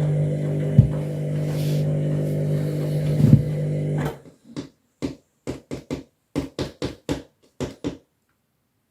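Washing machine running under a heavy overload: a steady motor hum with a couple of thumps from the drum. About four seconds in the hum cuts off and gives way to a string of short, irregular pulses, which stop near the end.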